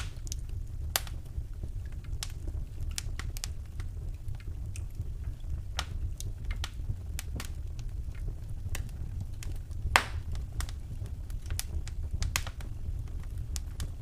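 Wood fire in a fireplace crackling: irregular sharp pops and snaps over a low steady rumble, with the loudest pop about ten seconds in.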